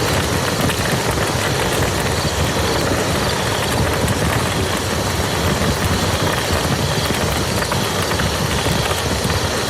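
Steady rain falling on muddy ground, a dense even patter of drops over a deep low rumble, with no let-up.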